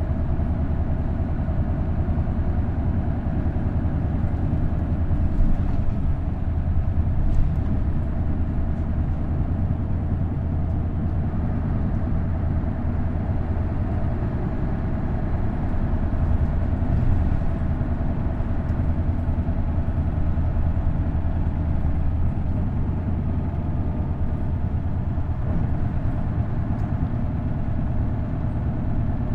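Isuzu Erga bus's V8 diesel engine, with a direct-drive five-speed manual gearbox, running steadily at an even pitch for the whole stretch.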